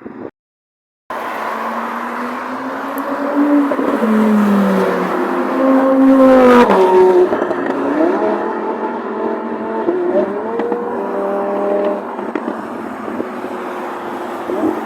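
Several sports car engines revving, their pitch rising and falling. The loudest comes in the middle, ending in a sharp drop in pitch as a car passes by. The sound cuts out briefly near the start.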